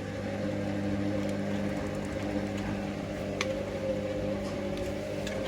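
Hoover Link washing machine on its final 1000 rpm spin: the drum motor running with a steady hum and a higher, slightly wavering whine.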